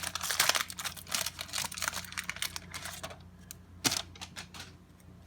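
Trading cards and a pack wrapper being handled: a quick run of small clicks and crinkles for about three seconds, then quieter, with one sharp click near four seconds in.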